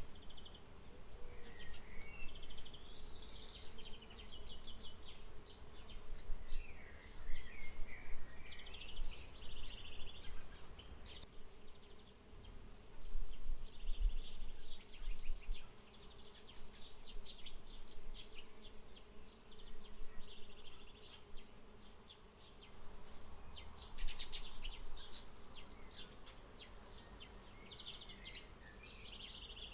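Small birds chirping and trilling again and again throughout, over a steady buzz of insects.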